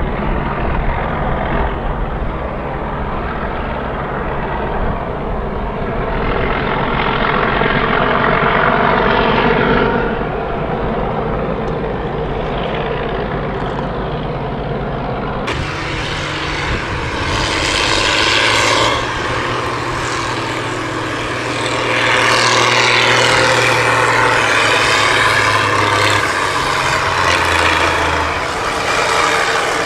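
Big tractor diesel engines on open straight exhaust pipes, running loudly and revved up several times. The sound changes abruptly about halfway through.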